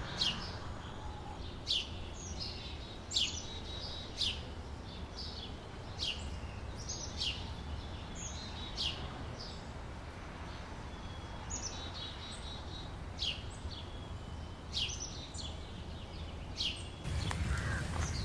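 A bird calling over and over, short sharp downward-sweeping chirps about once a second, over a steady low background hum that gets louder near the end.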